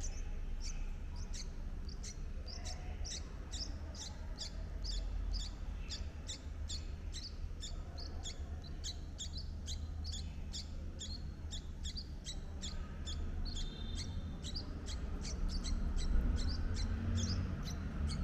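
A small bird giving a rapid, steady series of short, high chirps, about two or three a second, over a low rumble. A thin, high, held note joins in near the end.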